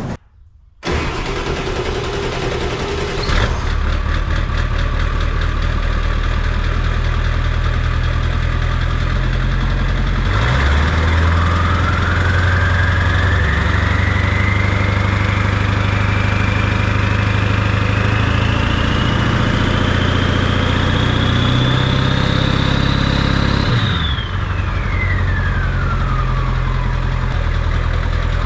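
John Deere 8370R tractor's diesel engine running. About ten seconds in, the engine note grows heavier and a high whine climbs steadily for about thirteen seconds, then falls away quickly as the engine settles back to idle.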